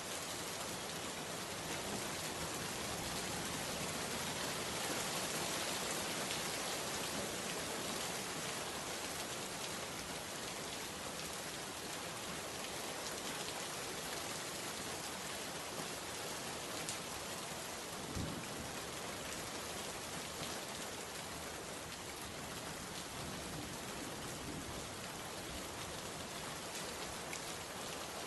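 Steady rain falling, with dense patter of drops and one brief low thump about eighteen seconds in.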